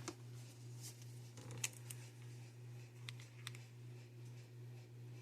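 A few faint, sharp clicks and taps, as of small plastic parts and painting tools being handled, over a steady low hum.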